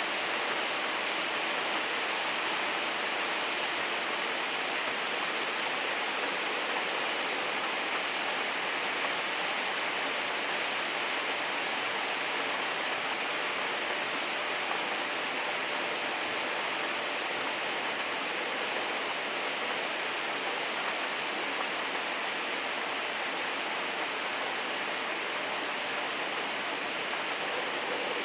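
Steady rain falling: an even hiss with no separate drops standing out.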